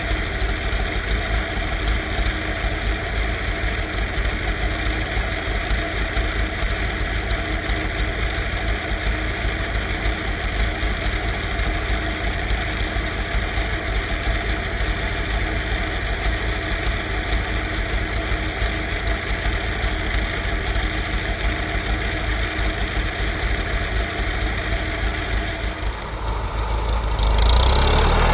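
An engine running steadily. About 27 seconds in, its sound changes and grows louder.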